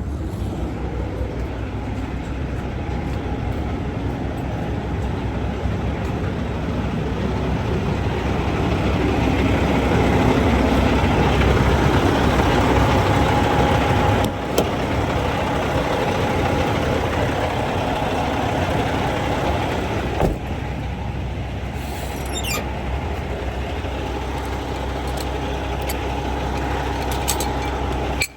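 Diesel semi-truck engine running steadily, its level swelling and easing again through the middle, with two brief breaks.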